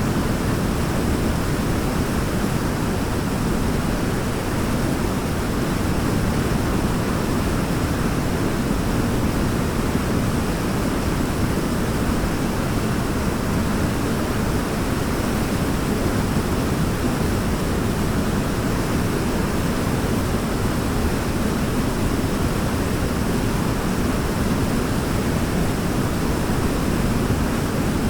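Waterfall rushing in a steady, even roar of falling water, heaviest in the low range, with no change throughout.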